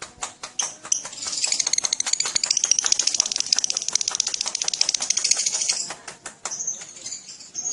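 Lovebird giving a long ngekek: a rapid, high chattering trill of sharp notes at about fifteen a second. It tightens into the fast run about a second in, holds it for about five seconds, then loosens into scattered chips near the end.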